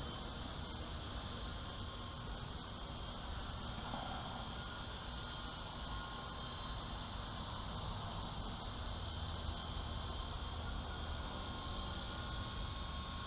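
WLToys V915 fixed-pitch RC helicopter in flight: a steady high electric-motor whine and rotor buzz, with a low hum underneath, its pitch shifting slightly later on.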